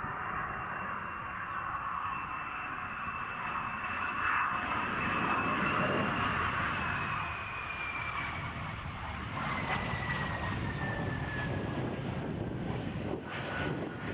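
Fighter jet engine running, a dense rush of jet noise with a high whine that falls slowly in pitch as the aircraft goes by.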